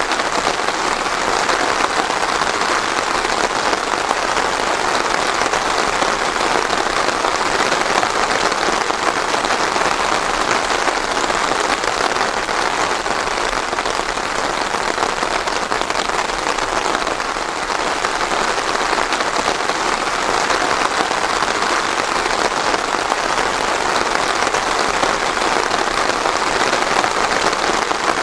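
Steady rain falling, no thunder.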